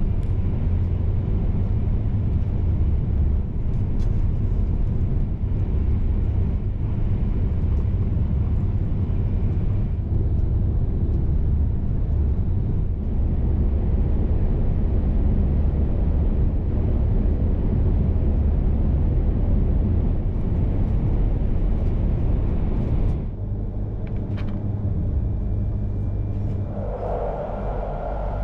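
Steady low rumble of an E3 series Shinkansen running at speed, heard inside the passenger cabin. About 23 seconds in the rumble drops a little and changes character.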